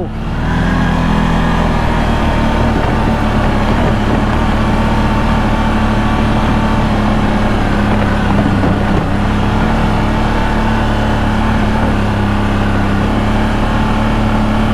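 CFMOTO CFORCE 1000 Overland ATV's V-twin engine pulling away, its pitch rising over the first second or two, then running at a steady trail speed.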